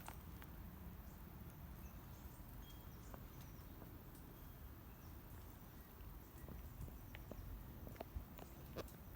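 Faint, irregular footsteps and small clicks over a low rumble, with a few sharper knocks near the end.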